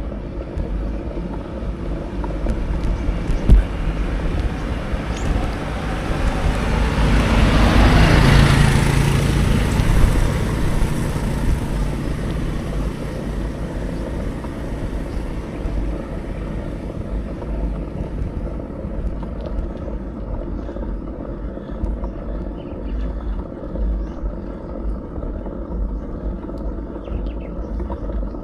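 Wind and road noise on a bicycle-mounted action camera's microphone, with a single knock about three seconds in. A motor vehicle passes, its engine hum and road noise swelling to a peak about eight seconds in and fading away over several seconds.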